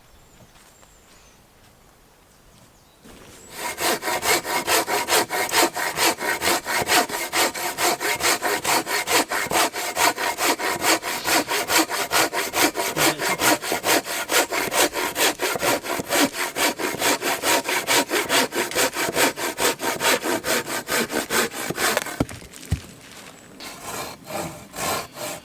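Hand saw cutting through a log of firewood in quick, steady back-and-forth strokes. It starts a few seconds in, stops briefly near the end, then starts again with lighter strokes.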